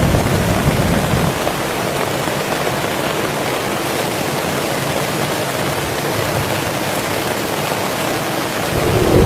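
Heavy rain falling steadily. A low rumble of thunder dies away in the first second, and another rumble begins to swell near the end.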